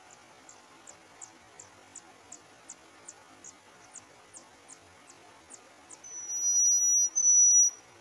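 Oriental magpie-robin calls at the nest: a run of thin, high, downward chips about three a second. About six seconds in come two loud, long, steady high whistles with a brief break between them.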